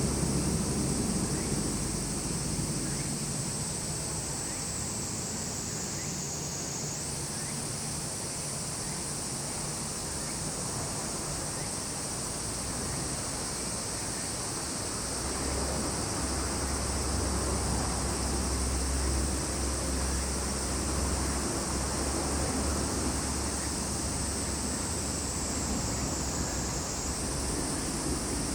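Summer cicadas droning in a continuous high-pitched sizzle, with a tone that slowly sinks and snaps back up twice. A low rumble swells under it about halfway through.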